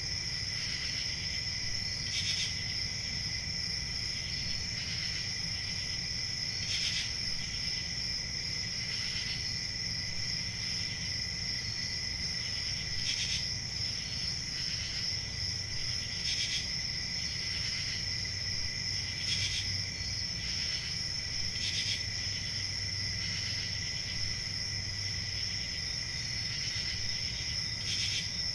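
Chorus of crickets trilling steadily, with a louder single chirp standing out every few seconds, over a low steady rumble.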